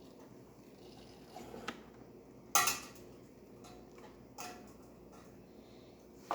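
A few sharp clinks and knocks of dishware being handled, the loudest about two and a half seconds in, over a faint steady hum.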